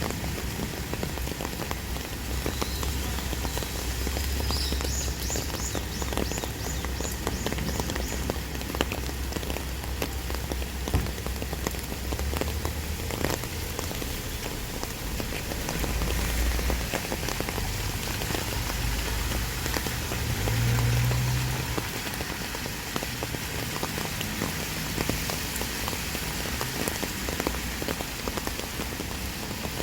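Heavy downpour: hard rain pelting down steadily, with countless individual drops splattering on surfaces.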